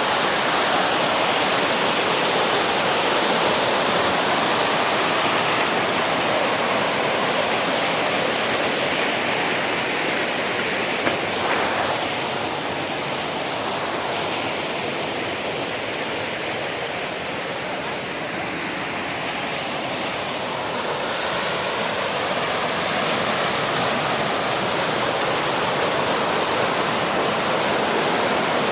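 Steady rush of a mountain waterfall, falling water as a continuous even noise that eases a little for about ten seconds in the middle.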